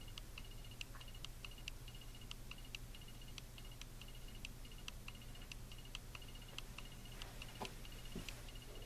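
Casablanca Delta II ceiling fan with a K55 motor running on low: a steady low motor hum under fast, regular ticking, about three ticks a second. The fan is wobbling on loose blade set screws.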